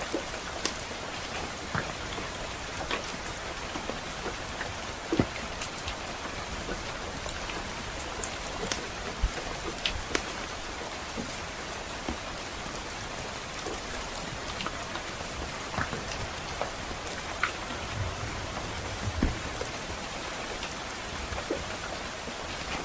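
Steady soft rain, with sharp irregular pops and crackles from a wood fire scattered throughout.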